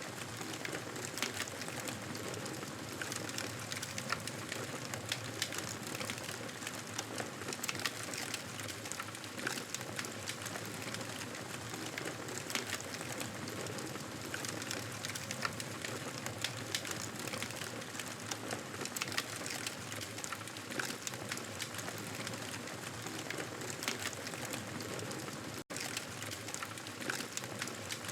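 Wood fire crackling steadily: a constant hiss with frequent sharp pops and snaps, broken by a momentary dropout near the end.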